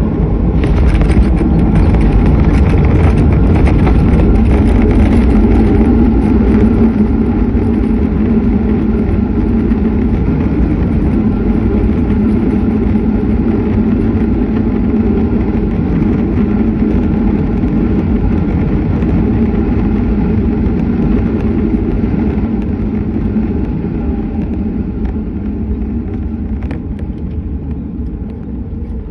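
Airplane landing: a loud, steady rumble that slowly eases over the last several seconds.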